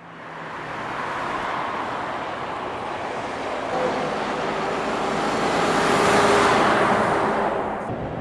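Road vehicle noise that swells to a peak about six seconds in and then eases off.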